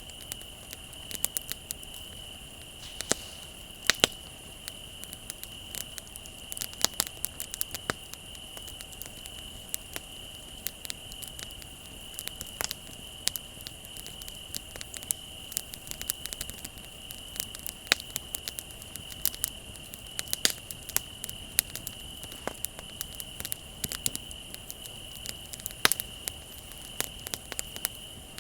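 Wood bonfire crackling, with irregular sharp pops and snaps, over a steady high-pitched trill of crickets.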